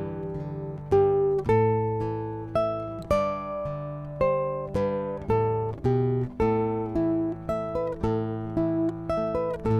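Classical guitar played solo, fingerpicked melody notes over ringing bass notes, each note plucked and left to fade, at a slow, even pace.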